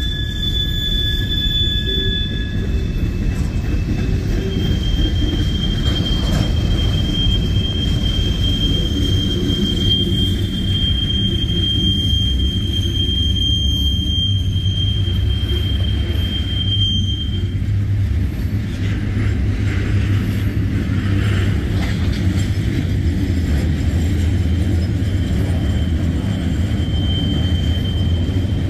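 Freight cars of a manifest train rolling past close by: a steady rumble of steel wheels on rail, with a thin high wheel squeal that comes and goes, longest from about five to seventeen seconds in.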